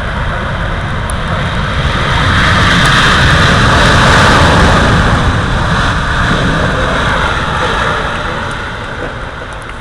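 Airbus A380's four jet engines, loud as the airliner passes close on its landing. The noise swells to a peak about halfway through and then slowly fades.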